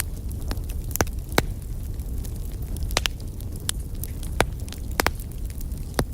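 Wood fire burning in a fireplace: a steady low rumble of flames with sharp, irregular crackles and pops, about six of them.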